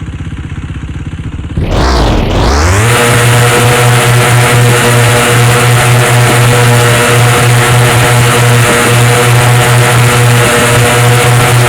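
KTM Duke 390 single-cylinder engine idling, then revved hard about two seconds in and held steady at high revs for some ten seconds before dropping back.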